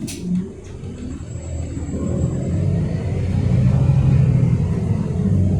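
Scania K230UD double-decker bus's five-cylinder diesel engine heard from inside the bus, accelerating, its low drone growing louder and rising slightly in pitch. There is a short click right at the start.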